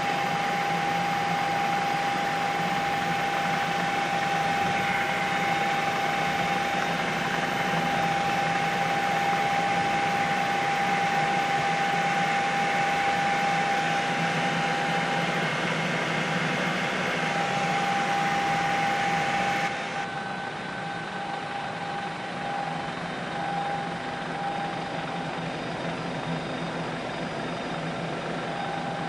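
Steady drone of a helicopter's engine and rotors with a constant whine, heard from inside the cabin. About two-thirds of the way through it turns a little quieter and duller.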